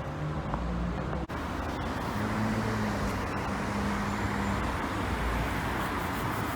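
Road traffic noise: the steady running of a motor vehicle's engine, with a brief cut-out in the sound about a second in.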